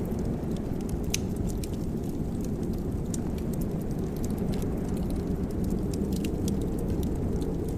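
Wood fire in a fireplace crackling: a steady low rumble of the flames with scattered sharp pops and ticks, several each second.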